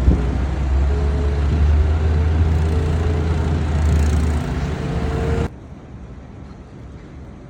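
City street traffic: a motor vehicle's engine runs with a steady low rumble under a noisy wash of street sound. About two thirds of the way through it cuts off abruptly, leaving much quieter street noise.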